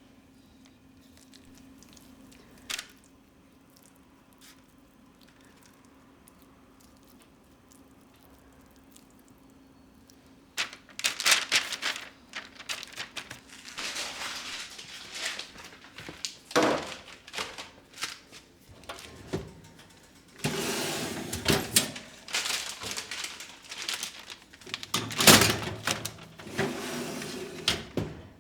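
Objects being handled and moved about: irregular knocks, thunks and scraping start about a third of the way in and keep going. Before that it is quiet, with a faint steady hum and one sharp click.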